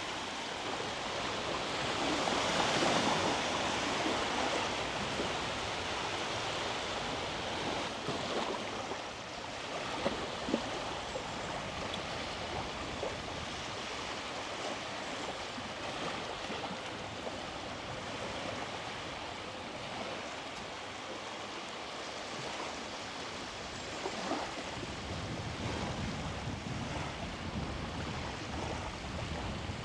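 Sea waves washing onto the beach, a steady rush of surf that swells louder about two seconds in and again near the end. Two short clicks about ten seconds in.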